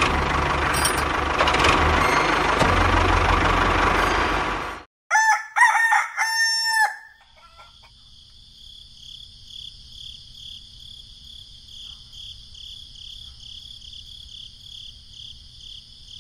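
A small engine runs with a rushing noise for about the first five seconds and cuts off suddenly. A rooster then crows once, followed by a steady chorus of crickets chirping.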